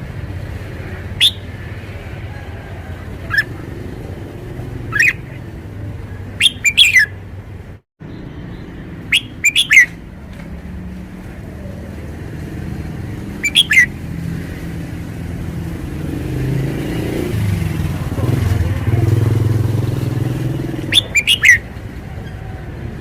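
Caged red-whiskered bulbul singing short, loud, clear phrases every few seconds, several in quick clusters. Underneath is a steady low rumble that swells for a few seconds near the end, and the sound drops out for a split second about eight seconds in.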